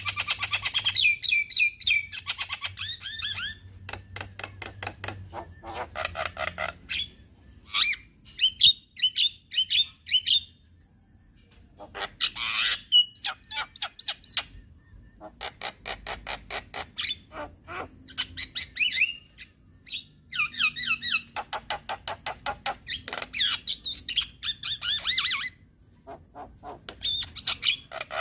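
Javan myna (jalak kebo) singing in repeated bursts of rapid chattering notes mixed with whistles. Each burst lasts a second or a few, with short pauses between.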